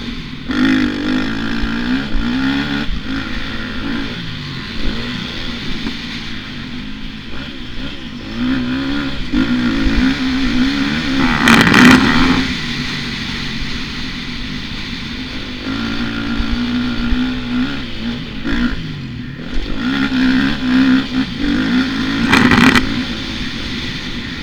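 Motocross bike engine revving up and down as it rides, its pitch rising and falling through the throttle changes. Two short, loud rushes of noise break in, about halfway through and near the end.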